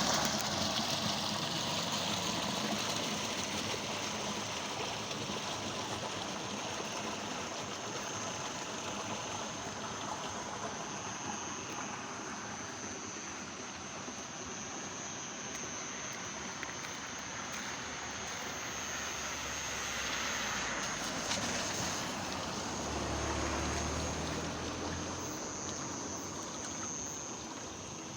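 Rainwater running and trickling in a steady rush, with a low rumble swelling briefly late on.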